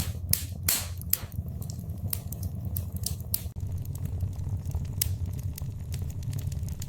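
Wood fire crackling in a fireplace: irregular sharp snaps and pops, several close together in the first second and a half and sparser after, over a steady low rumble.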